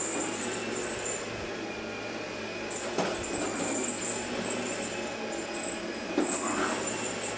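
Household vacuum cleaner running steadily, with a high hiss that comes and goes and a couple of short knocks, about three and six seconds in.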